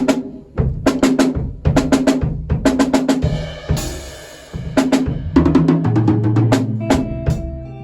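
Drum kit played in quick runs of snare and bass drum hits, with a cymbal crash ringing out about halfway through.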